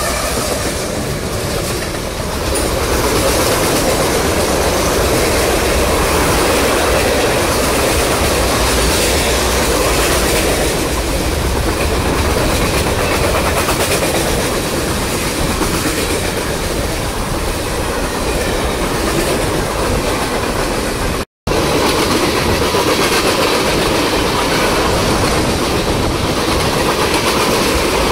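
Freight train passing at speed: a steady rumble and the clickety-clack of steel wheels over rail joints as a string of tank cars rolls by. The train horn's last note trails off at the very start. The sound drops out briefly about 21 seconds in, then the passing-car noise resumes close up.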